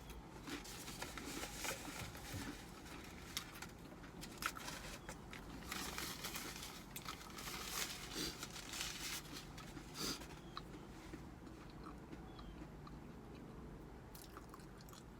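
Faint close-up eating sounds of a person eating homemade soup: chewing, with small wet clicks and crunches. They are busiest in the first ten seconds and thin out after that.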